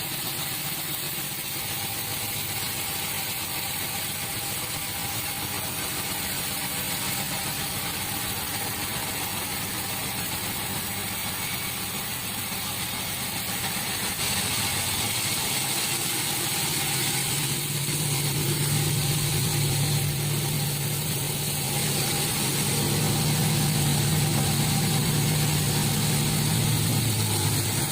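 Sawmill saw machinery running steadily, cutting a teak log. It gets louder about halfway through, and a deeper steady hum comes in about two-thirds of the way and stops just before the end.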